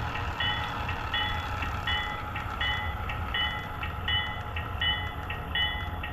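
Sound system of a Broadway Limited HO-scale SW7 switcher model playing its locomotive bell, ringing steadily about once every three-quarters of a second over the low rumble of its diesel engine sound, as the locomotive creeps along at slow speed.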